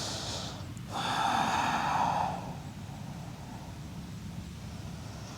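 A person breathing audibly: a long breath out through the mouth starts about a second in and lasts about a second and a half, taken while folding forward in yoga.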